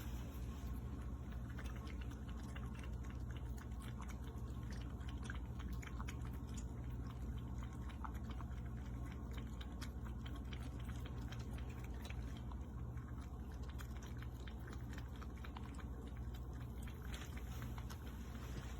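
A cat lapping water from an electric pet water fountain: quick, irregular small licks and splashes over the steady low hum of the fountain.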